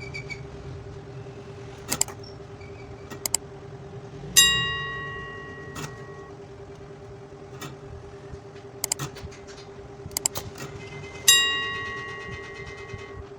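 Metal clinks and clicks of bench work, with two loud ringing metallic strikes about seven seconds apart, each dying away over a second or two, over a steady electrical hum.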